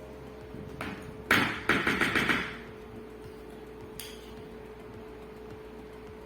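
A spoon knocking and clattering against a bowl in a quick series of strokes about a second in, followed by a single light click a few seconds later, while grated cheese is added to the white sauce.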